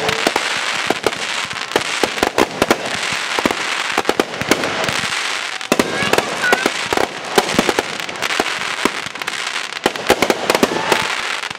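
Consumer 1.4G fireworks cake firing: aerial shots bang in quick, unbroken succession with crackling between them, thinning briefly about halfway through.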